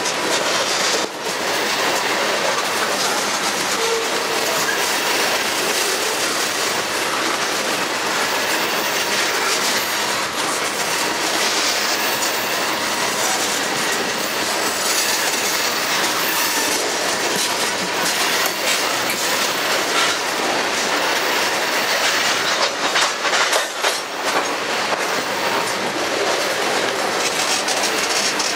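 Railroad tank cars of a freight train rolling past at a steady speed: a continuous rumble of steel wheels on rail with clickety-clack, and a stretch of sharper clatter near the end.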